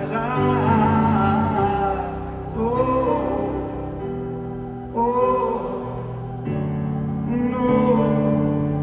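Live band playing a slow ballad: sustained keyboard chords with a wavering sung vocal line over them.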